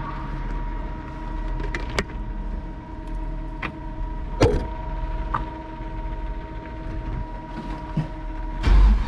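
Steady whine and low rumble from the drift truck, with a few sharp clicks and knocks. A much louder low rumble comes in near the end.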